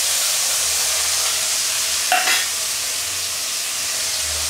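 Freshly added wet ground spice paste sizzling and spitting steadily in hot oil in a metal kadai. A short, sharper noise comes about halfway through.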